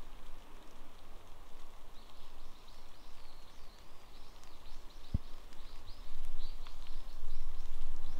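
A bird calling a quick series of high, repeated notes, two or three a second, over the steady hiss of light rain. There is a single soft knock about five seconds in, and louder rustling in the last two seconds.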